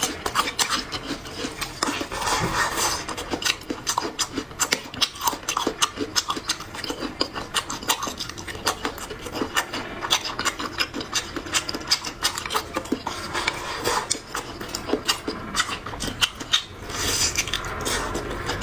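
Close-miked eating: food crunched and chewed, with many quick, irregular crackles.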